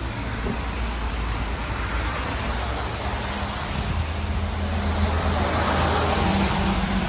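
Street traffic noise, with a motor vehicle passing close by that swells to its loudest about five or six seconds in.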